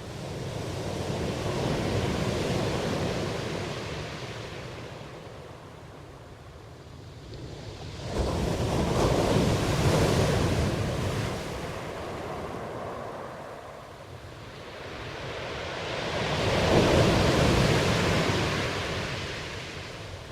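Ocean surf: three waves roll in and wash back out, about one every seven or eight seconds. Each swells to a rush of noise and then ebbs; the second comes in suddenly about eight seconds in.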